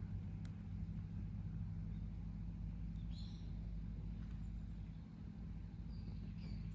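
Wood campfire crackling with a few sharp pops, over a steady low hum; small birds chirp briefly a few times.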